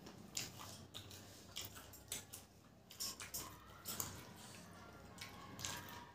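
Chewing of crisp samosas: short, irregular crunches and clicks, about two a second.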